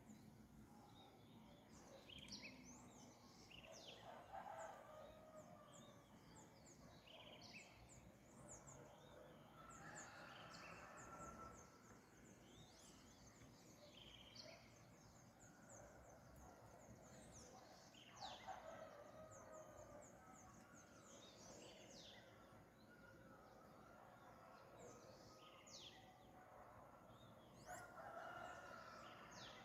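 Faint dawn birdsong: many small birds chirping in quick, high, down-sweeping notes, with a rooster crowing a few times.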